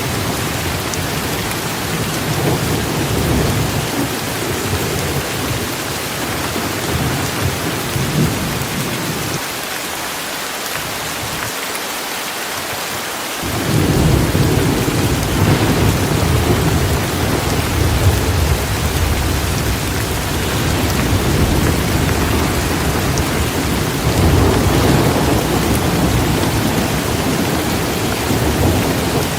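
Torrential rain falling steadily in a thunderstorm, with low rolling thunder rumbling underneath. The thunder fades away for a few seconds and rolls back in louder about halfway through.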